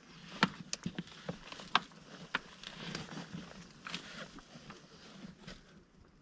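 Irregular clicks, knocks and rustling, a dozen or so sharp ticks scattered unevenly, with a few louder knocks.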